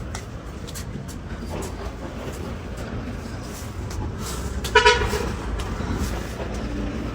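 A steady low rumble with scattered light knocks, and about two thirds of the way in one short, loud horn toot.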